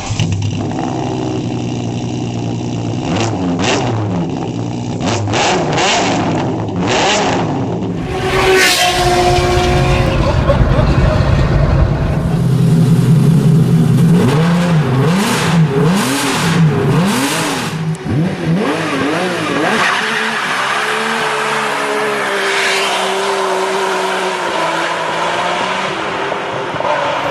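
Ferrari F50's 4.7-litre naturally aspirated V12 revving and accelerating in several takes, its pitch sweeping up and down again and again through the middle. A steadier engine note holds near the end.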